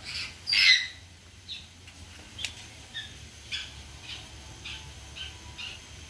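Bird calls: one loud high call about half a second in, then a run of short high chirps about two a second. A single sharp click comes near the middle.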